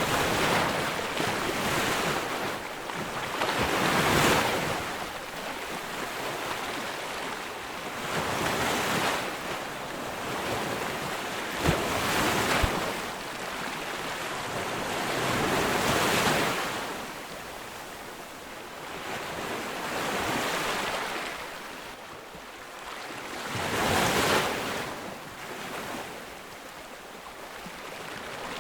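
Ocean waves breaking on a beach, the surf swelling and falling away every four seconds or so, with wind on the microphone. Two short sharp knocks come about midway.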